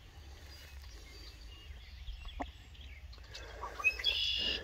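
A bird singing, one short high call near the end, over quiet outdoor background with a single faint tick about halfway through.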